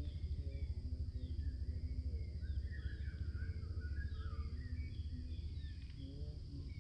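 Small birds chirping and calling, busiest a few seconds in, over a steady low rumble.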